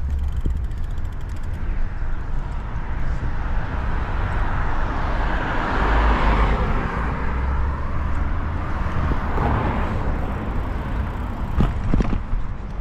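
Wind buffeting the microphone while cycling, with a car passing by: its road noise swells to a peak in the middle and fades away. A couple of sharp clicks near the end.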